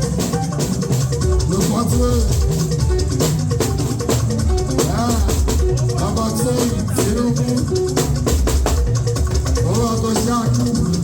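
Live music with drums and shaken rattle percussion, with singing over it.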